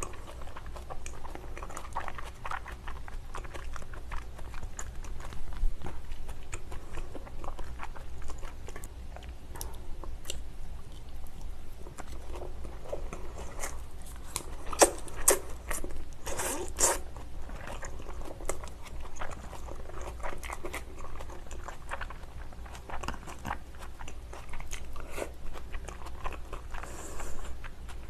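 A person chewing raw salmon sashimi, with many small mouth clicks throughout and a few louder clicks about fifteen to seventeen seconds in.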